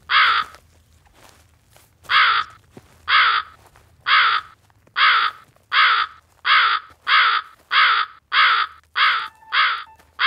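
About a dozen loud, harsh, caw-like bird calls, each about half a second long, coming faster and faster: two seconds apart at first, then about one a second, then nearly two a second. Near the end a steady musical tone comes in under them.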